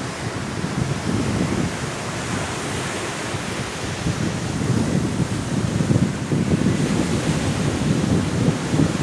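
Sea waves washing onto a shore under strong wind: a steady rushing that swells a little about halfway through.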